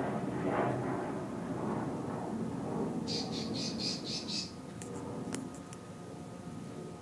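A bird chirping: a quick run of about six high chirps about three seconds in, over low background noise, followed by a few faint clicks.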